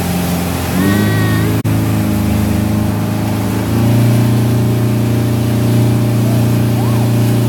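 Motorboat engine running and picking up speed in two steps, about a second in and again near four seconds, then holding steady at the higher speed.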